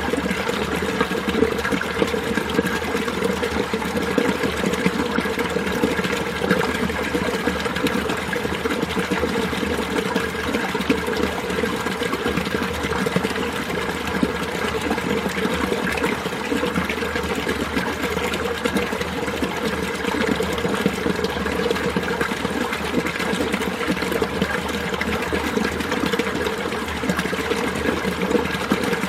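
Mountain valley stream flowing and gurgling steadily over rocks in winter.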